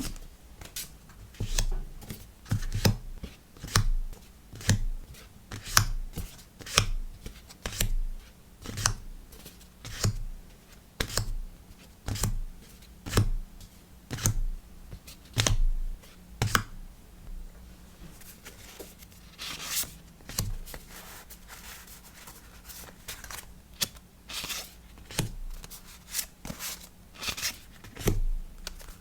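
Hands packing stickers and paper packaging: a run of crisp snips or taps about once a second, each with a soft thud, then paper rustling and scraping with a few more snaps near the end.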